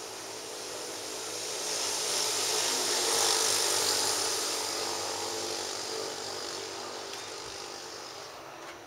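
A vehicle passing on a rain-wet street: tyre hiss swells over about two seconds, peaks, then fades away over the next several.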